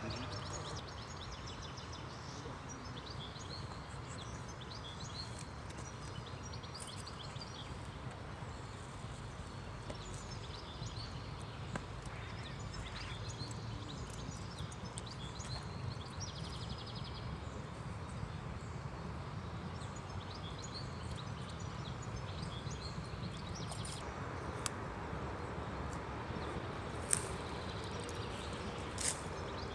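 Outdoor ambience: birds chirping now and then over a steady low rumble, with a few sharp clicks near the end.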